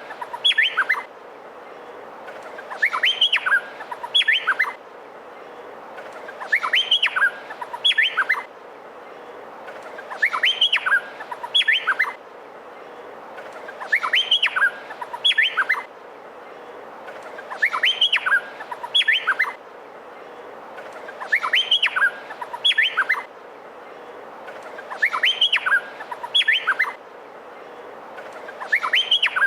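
Male meliphaga honeyeater (cucak pantai) singing: a short phrase of quick, sharp whistled notes sweeping up and down, repeated about every four seconds over a steady background hiss.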